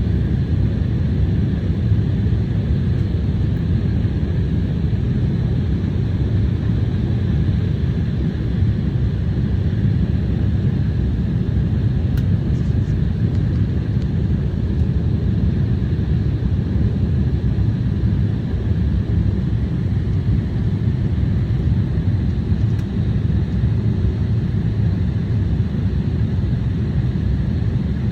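Steady airliner cabin noise inside a KLM Embraer 175: an even, deep rumble of engines and airflow, with a faint steady whine above it.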